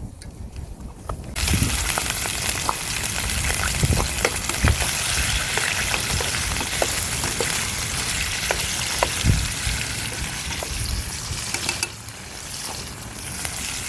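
Food sizzling in a hot pan, starting suddenly about a second and a half in as it goes into the pan, with scattered clicks of a utensil stirring it; the sizzle eases a little near the end.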